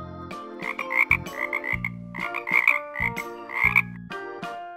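Frog croaking: a quick series of short croaks in several bursts.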